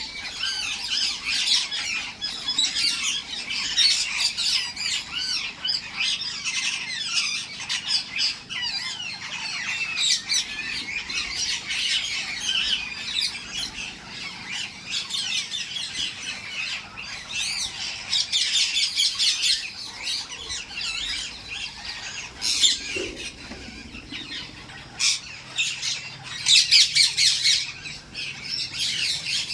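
Many parrots squawking and chattering at once in a dense, continuous din, with a burst of louder, sharper calls near the end.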